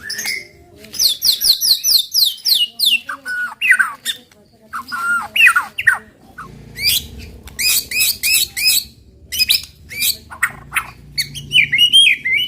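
White-rumped shama (murai batu) singing a varied string of loud phrases: a fast run of about eight falling notes, sliding whistles and sharp high chips, then a rapid rolling series of repeated notes near the end.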